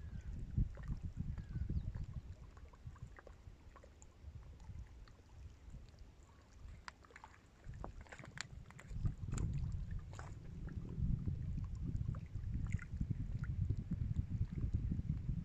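Low, uneven rumble of wind buffeting the microphone outdoors. It eases for a few seconds in the middle and picks up again, with a few faint ticks and clicks over it.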